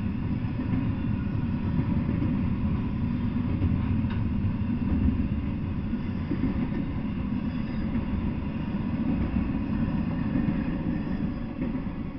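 Intermodal freight train's double-stack well cars rolling past: a steady low rumble of steel wheels on rail, easing off near the end as the last car goes by.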